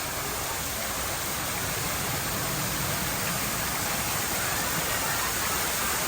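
A steady rushing noise that stays level throughout, with faint distant voices.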